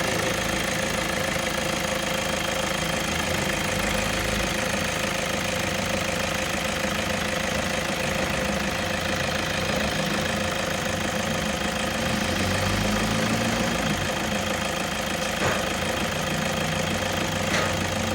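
Toyota Innova's engine idling steadily, with a constant whine running through it.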